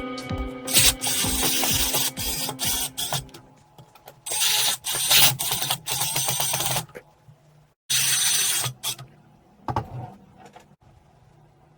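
Background music fading out, then a small motorised tool running in short bursts: three of about two to three seconds each, and a brief one near the end.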